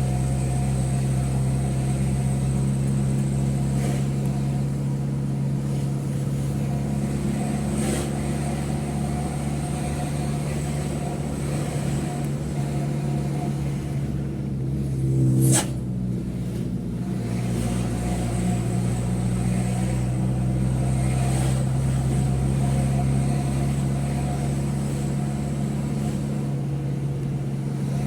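A Mitsubishi Fuso truck's diesel engine running steadily under way, heard from inside the cab. About halfway through there is a short loud burst, after which the engine note drops briefly and then builds up again.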